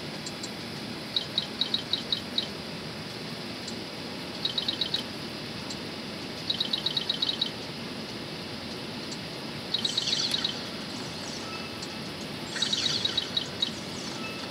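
A bird calling in short, rapid chirping trills of several quick notes each, about five trills spread a second or two apart, the last two louder. Steady low background noise runs underneath.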